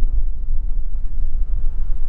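Wind buffeting the microphone of a riding electric unicycle: a loud, uneven low rumble.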